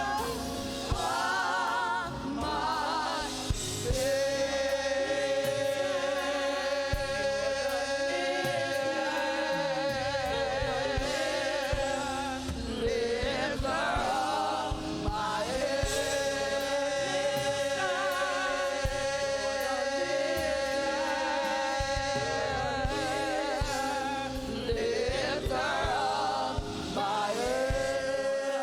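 A gospel choir singing long, held notes with vibrato in a worship chorus, over a band. The sustained chords break and re-form twice.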